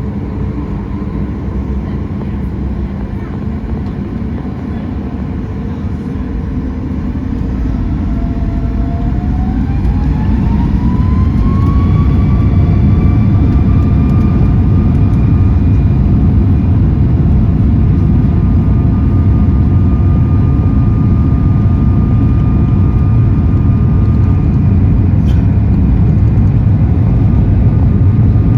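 Boeing 737-8 MAX's CFM LEAP-1B turbofans heard from inside the cabin, spooling up toward takeoff thrust. A whine rises in pitch a few seconds in while the low rumble grows louder, then the engines settle into a steady roar with a constant whine over the rumble.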